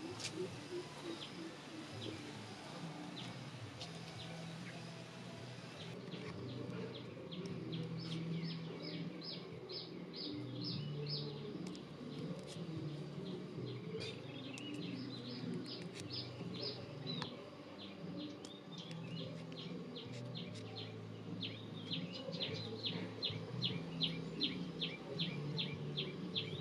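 A bird chirping in quick runs of short, high chirps, several a second, busiest near the end, over a low background hum.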